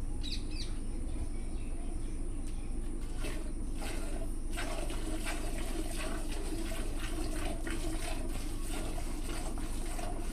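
Milk squirting into a pail as a buffalo is milked, in repeated splashing strokes over a steady background hum.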